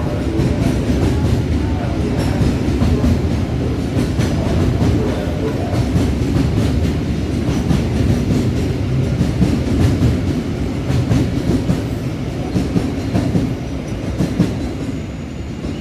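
A train running through on the rails: a steady rumble of wheels with a run of rapid clicks as they cross the rail joints.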